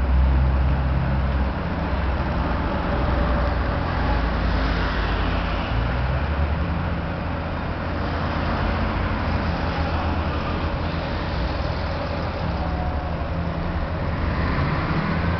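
Ferrari California's V8 engine running steadily at low revs, its deep rumble loudest at the start, amid street traffic noise that swells and fades twice.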